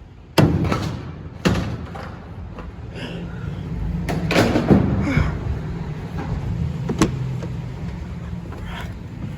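Several sharp bangs and thuds, the loudest two about a second apart near the start, over a steady low rumble.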